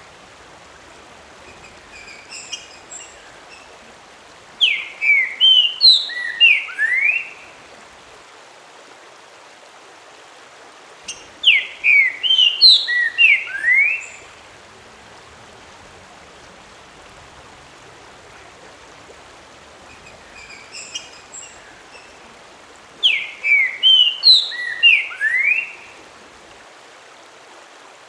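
A songbird singing three loud phrases of quick, falling whistled notes, each about two and a half seconds long and several seconds apart, with a few softer notes before two of them, over a steady hiss.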